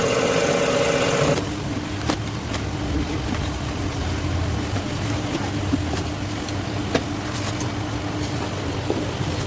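Heavy truck engine running at idle after a piston replacement. About a second and a half in, the sound changes abruptly to a quieter, lower steady hum with a few faint clicks.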